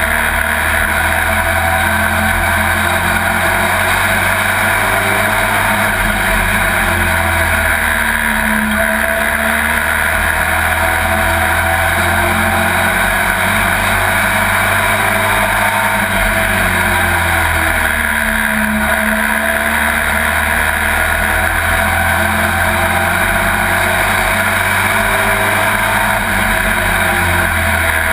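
Race truck's engine at full racing load, heard loud from inside the cab. Twice, about ten seconds apart, the engine note drops and climbs back up as the driver lifts off and gets back on the throttle.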